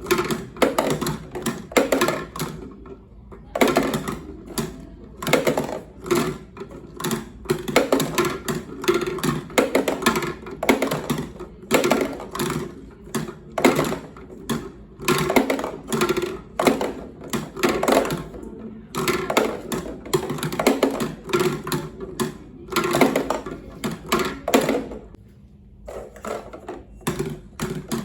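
Marbles rolling and clacking down a wooden marble run: a busy, uneven stream of clicks and rattles that comes and goes in short runs, with a brief lull near the end.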